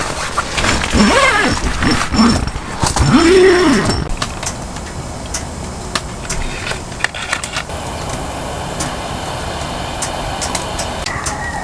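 Steady heavy rain hiss with scattered sharp ticks and crackles through it. During the first few seconds a pitched sound slides up and down in several arcs over the rain.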